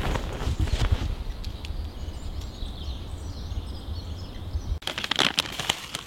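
Outdoor rustling and handling noise over a low rumble, with faint bird chirps in the background. The rumble cuts off suddenly near the end, leaving sharper crackling rustles.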